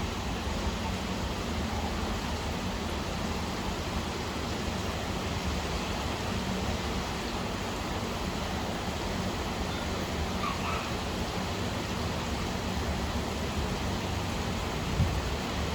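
Steady rain falling in an even hiss, with one short soft thump near the end.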